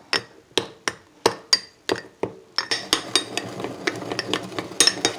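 Spoon stirring a thick batter in a mug, clinking against the mug's sides: separate sharp clinks about three a second, then quicker, denser clinking and scraping from about halfway.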